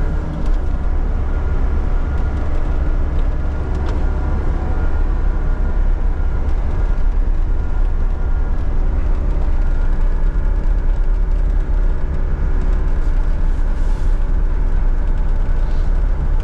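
John Deere 60G compact excavator's diesel engine running at a steady, even pitch as the machine swings around.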